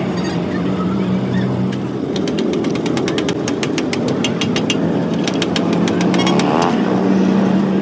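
An engine or motor running steadily, with a quick series of sharp clicks from about two seconds in until near the end.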